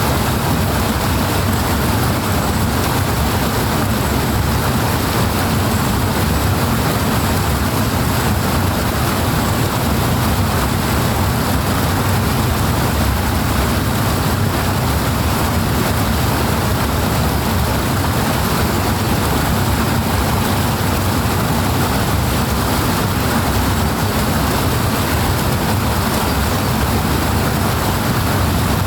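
Powerful rushing water: a steady, dense rush with a heavy low rumble, unchanging throughout.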